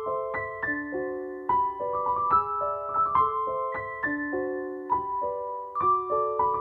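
Background piano music: a gentle melody of struck notes, several a second, played over a steady accompaniment.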